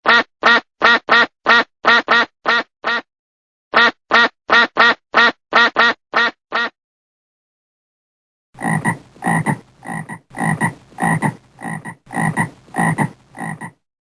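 Frog croaking: two runs of short, evenly spaced croaks, about four a second. After a short pause, a second recording of coarser, slower calls follows at about two a second.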